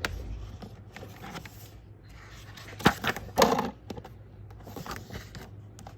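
Scattered light clicks and taps, with a sharp tick about three seconds in and a brief vocal sound just after it, over a steady low hum.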